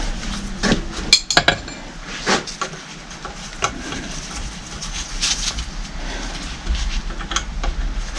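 Hand tools clinking and knocking on the metal of a hydraulic pump as it is tightened to pull its halves together: a quick cluster of sharp clinks about a second in, then single clinks every second or two.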